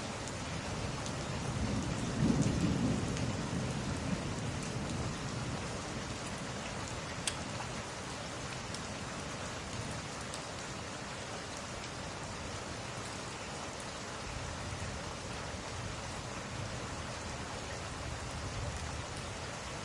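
Steady rainfall with a low roll of thunder that swells about two seconds in and dies away over the next few seconds, and a fainter rumble later on. A few faint sharp clicks stand out over the rain.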